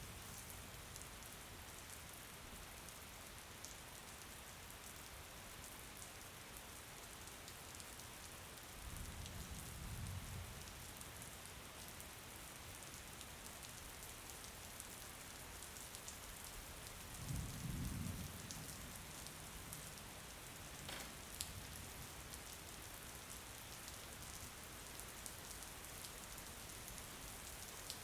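Steady rain falling, a faint even hiss. Brief low rumbles come about a third of the way in and again past halfway, and there is a single sharp click a few seconds later.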